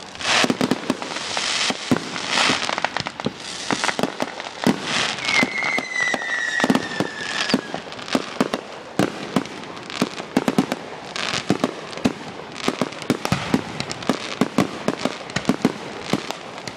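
Aerial fireworks display: a dense run of shell bursts and crackles going off one after another, with a falling whistle about five seconds in.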